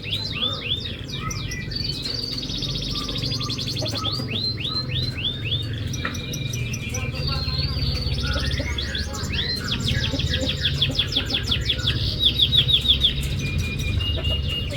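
Domestic canary singing a continuous song of fast trills, rapid repeated notes and quick falling whistles, over a low steady hum. It is a lure song meant to prompt reluctant canaries to sing.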